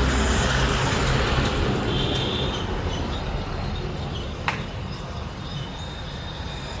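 Motor vehicle running, its low hum gradually fading, with a single sharp click about four and a half seconds in.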